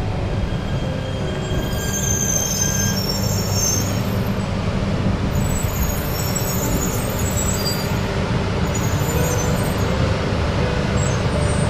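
E3 series Yamagata Shinkansen train pulling slowly into a station with a steady low rumble. Its brakes give high-pitched squeals several times as it slows.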